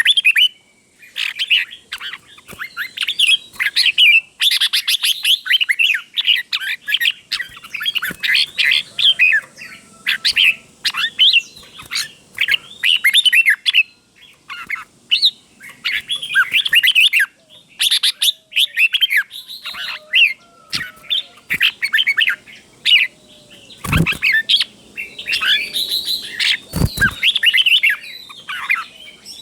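Red-whiskered bulbul singing: quick, chirping, gliding song phrases, repeated one after another with short pauses, in the doubled-phrase style used as a tutor song for young bulbuls. Two dull thumps sound about three seconds apart near the end.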